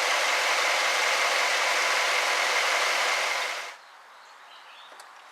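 1964 Ford Thunderbird's 390 V8 running with a steady hiss-like noise, then shut off about two-thirds of the way through.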